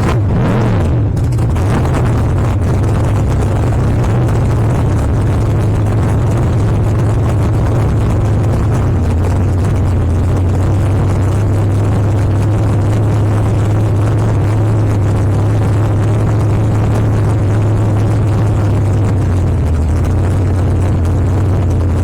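Drag race car's engine idling steadily, a loud low drone heard through the onboard camera.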